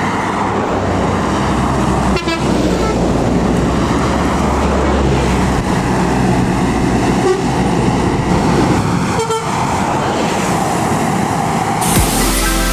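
Large buses and trucks passing close by on a highway, a deep engine rumble under steady tyre and road noise, with horn toots among them. Electronic music comes in near the end.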